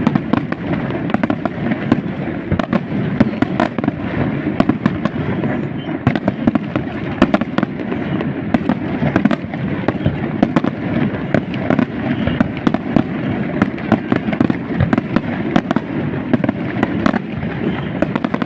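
Fireworks display: a dense, unbroken barrage of sharp bangs and crackles over a continuous rumble.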